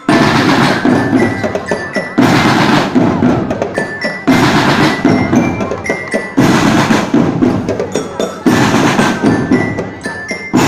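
School drumband playing: marching drums with a loud accented crash about every two seconds, and a glockenspiel (bell lyra) picking out a melody over the drumming.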